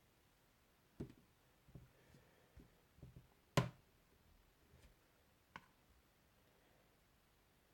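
Faint scattered clicks and light knocks from small objects being handled, about nine in all, with a sharp, louder click about three and a half seconds in.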